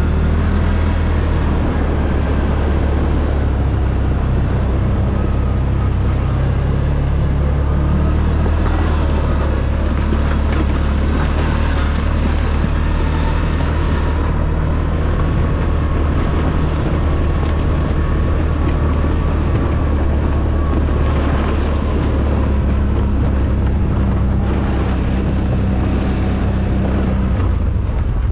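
ATV engine running steadily under way, with a constant rushing hiss over it; the engine note drops away near the end.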